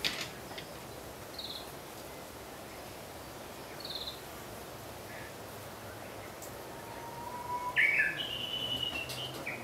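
Wild birds calling. A small bird gives a short, high chirp about every two and a half seconds, and a louder call of several notes comes near the end, over a steady background hiss.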